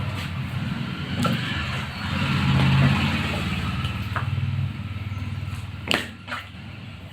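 A motor vehicle engine, most likely a motorcycle, running close by; it grows louder about two seconds in and fades away by about five seconds. Sharp knocks sound a few times, two of them close together near the end.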